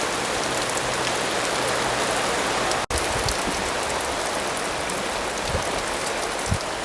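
Steady heavy rain falling, a dense hiss dotted with the ticks of individual drops, broken by a split-second dropout about three seconds in.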